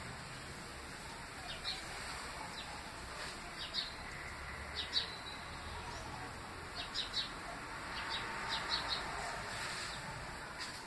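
Small birds chirping in the background: short high chirps in twos and threes every second or two, over a steady hiss.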